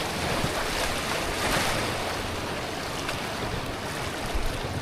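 River water rushing steadily around a tube riding down a fast jungle river, swelling briefly about a second and a half in.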